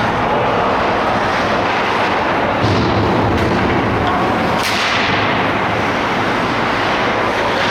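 Steady, loud rushing noise with two sharp knocks, a weaker one and then a stronger one about two seconds later.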